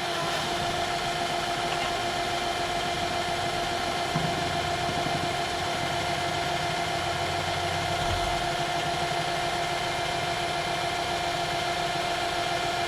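Small metal lathe running at a steady speed: a steady machine whine with a second, lower tone over a noisy hum, while a centre drill in a tailstock Jacobs chuck is fed into the workpiece. A faint knock comes about four seconds in and a low thump about eight seconds in.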